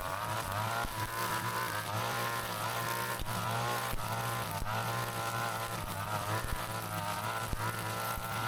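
Two-stroke brush cutter running at high speed, its engine pitch dipping and climbing again as it cuts through grass and weeds, with occasional sharp ticks.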